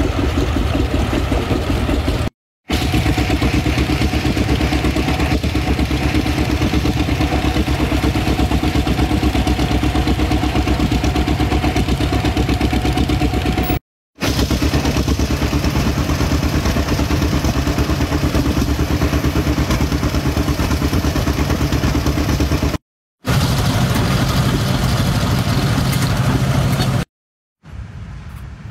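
Tractor engine running steadily with a fast, even firing beat while under way. The sound breaks off abruptly several times.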